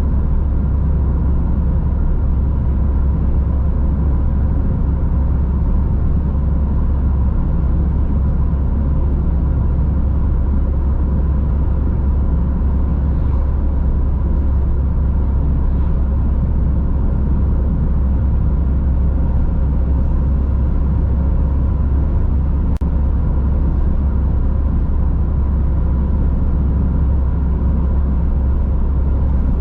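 Car driving steadily on a road: a constant low rumble of tyres and engine with a steady hum over it, and one faint click about 22 seconds in.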